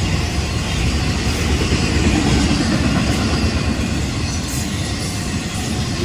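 Freight train cars rolling past, a steady noise of steel wheels running on the rails.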